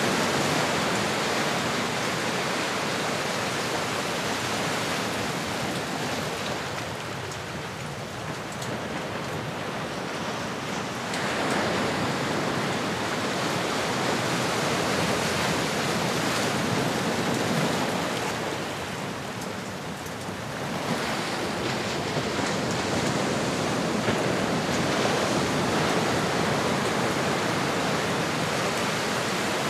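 Ocean surf: a steady wash of waves that dies down and swells back up twice, about ten seconds apart.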